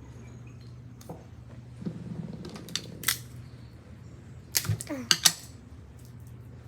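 Scattered sharp clicks and taps from handling craft materials for a bug house (tape, sticks, a plastic container), with a quick cluster of about five clicks near the end.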